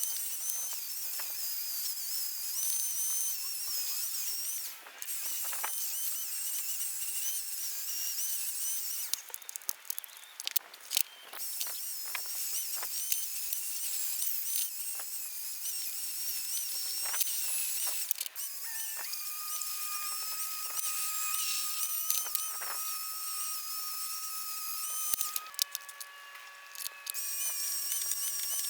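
A wire wheel on a power tool running against metal lathe parts as it strips paint, a high whine with scratching that dips briefly a few times. Steady held tones join in about two-thirds of the way through.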